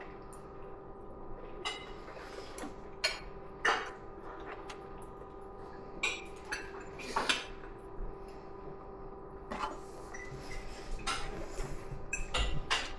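Cutlery clinking against plates and bowls while eating, with scattered sharp clinks about once a second and a few closer together near the end, over a steady faint hum.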